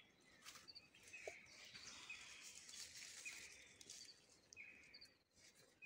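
Faint bird chirps, short high notes repeating about once a second, over quiet outdoor background hiss.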